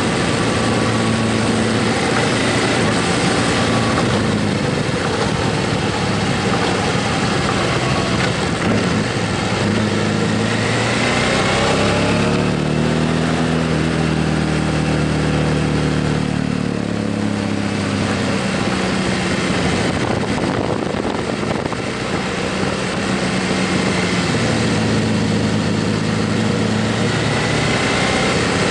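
Motorcycle on the move: the engine runs under heavy wind and road noise, and its note climbs and then falls in pitch around the middle.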